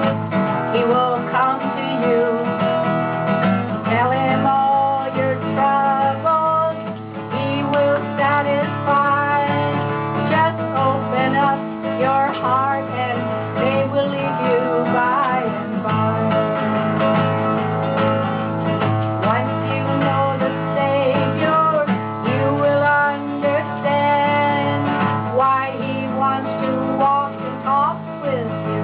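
Acoustic guitar strumming under a woman singing a gospel song.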